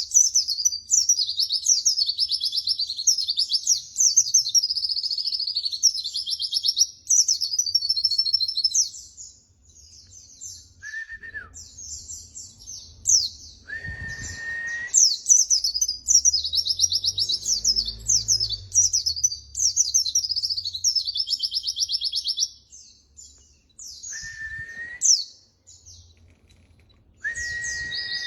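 White-eye (pleci) singing long, rapid, high twittering song phrases, with short pauses between bursts. A few times a lower, held whistle sounds, dropping in pitch at its end.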